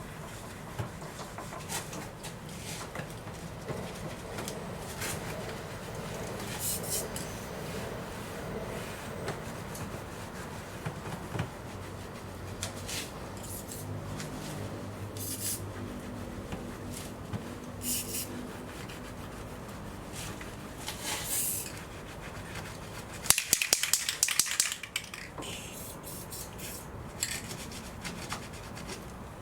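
Hand-cleaning sounds in a car's engine bay: scattered rubbing and scraping strokes, with a loud burst of rapid clattering about 23 seconds in.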